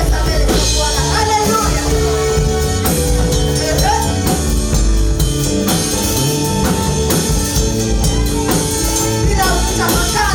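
Live gospel praise music: a band with bass, drums and tambourine playing steadily, with some singing.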